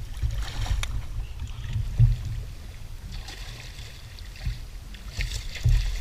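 Water splashing and sloshing around a kayak in three short bursts, over a steady low rumble of wind on the microphone.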